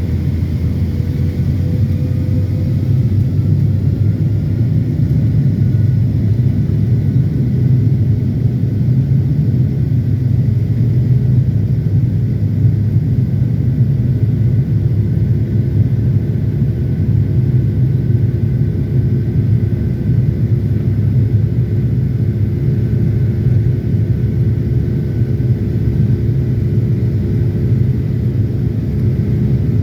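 Cabin noise inside a Boeing 757-300 airliner: a steady low rumble from the jet engines and airflow, with a few thin whines above it, two of which edge slightly upward in the first few seconds.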